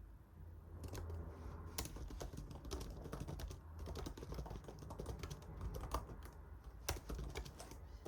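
Typing on a computer keyboard: irregular light key clicks, over a low steady hum.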